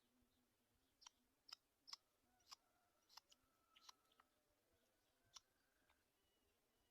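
About ten faint, sharp clicks at irregular intervals, some with a brief high chirp in them.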